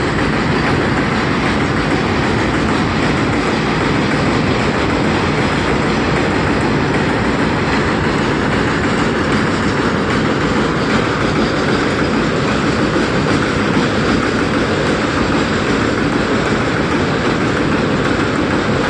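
Train running along the track: a loud, steady rumble and rattle of wheels on rails, with no pauses.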